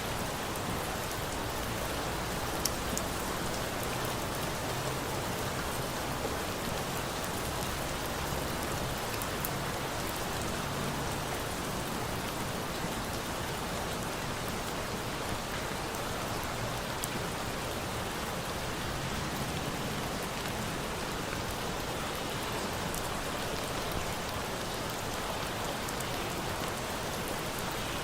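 Steady rain falling, with a campfire's occasional sharp crackles and pops scattered through it.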